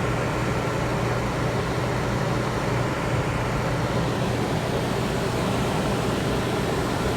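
RV air conditioner running on high cool with the fan at max: a steady rush of blowing air over a low, even hum.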